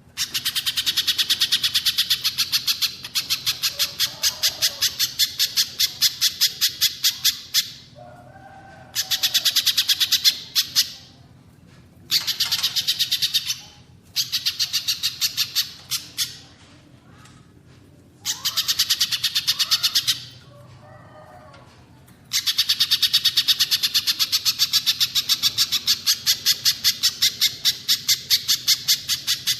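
A songbird calling in long runs of rapid, evenly repeated high chips, each run lasting about two to five seconds before a short break, with fainter lower notes in some of the gaps.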